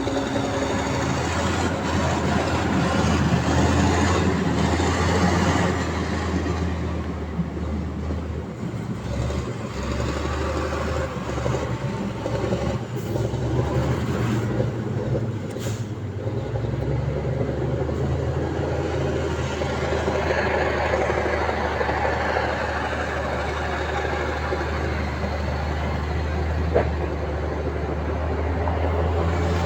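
Heavy diesel earthmoving machinery running steadily with a deep engine drone. The engine note shifts around eight seconds in and again around sixteen seconds in.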